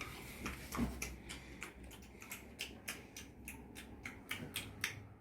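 A person making pretend-eating noises with the mouth: a quick, irregular run of smacking clicks, several a second.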